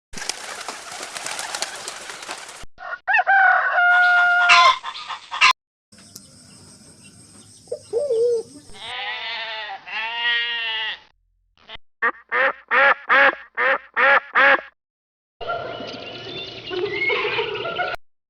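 A series of short animal-call clips spliced one after another with abrupt cuts between them, chicken and rooster calls among them. There is a held call with steady pitch about three seconds in, arching calls around the middle, then a run of about nine short rapid calls.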